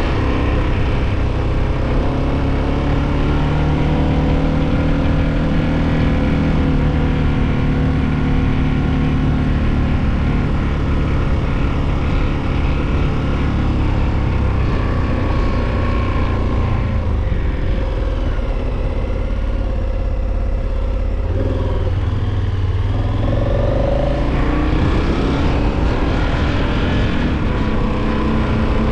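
KTM 1290 adventure motorcycle's V-twin engine running under way. About two-thirds through the revs drop as it slows, then the engine note climbs again near the end as it accelerates.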